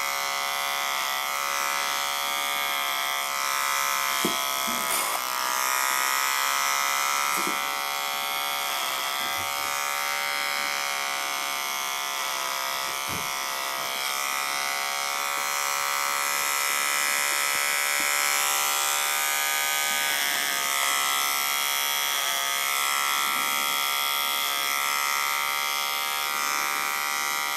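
Electric hair clipper buzzing steadily, its pitch dipping briefly a few times.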